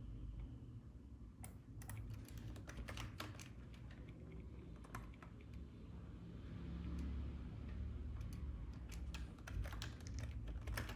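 Computer keyboard keys clicking in irregular clusters, heaviest about two seconds in and again near the end, over a steady low hum.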